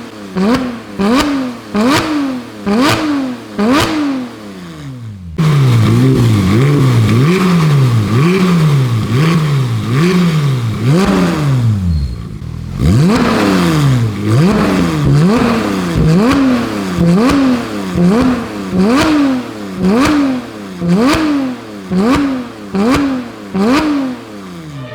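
Porsche 991.1 GT3 RS's 4.0-litre naturally aspirated flat-six, breathing through an IPE titanium exhaust with 200-cell catted headers, being blipped again and again, about once a second: each rev rises sharply in pitch and falls straight back. About five seconds in the sound turns louder and deeper, and the blips go on in quick succession.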